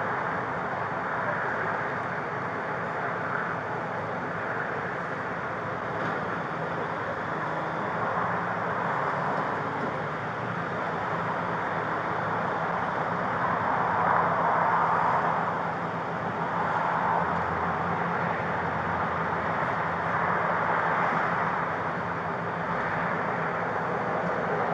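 Freeway traffic noise: a steady rush of vehicles with slow swells as they pass, the loudest about fourteen seconds in, over a low steady engine hum.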